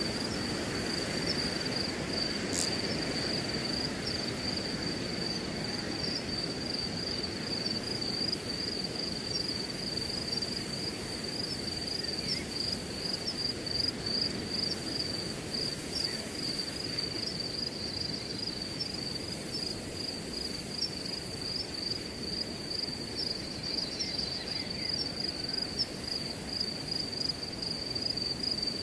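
Crickets trilling without a break in a high, finely pulsing tone, over the steady low rush of wind through grass.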